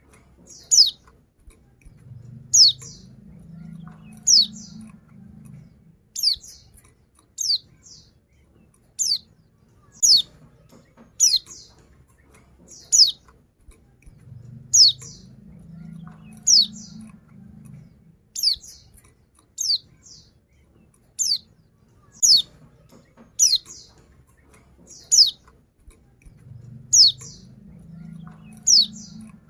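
Female white-eye (pleci) giving short, high, downward-slurred call notes, one about every second and a half. This is the female's call, used as a lure to draw males into song.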